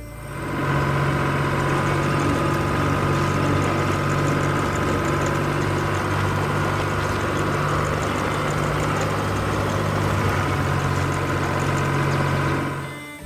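A heavy vehicle engine running steadily, fading in at the start and fading out near the end.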